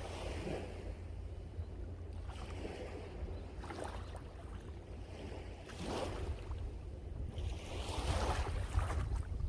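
Sea waves breaking and washing up the shore in repeated surges, the longest and loudest near the end, over a constant low rumble of strong wind buffeting the microphone.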